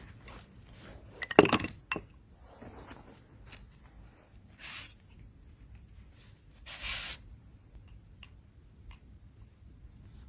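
Handling noises in a small room: a sharp knock and clatter about a second and a half in, followed by two short brushing scrapes and a few light ticks.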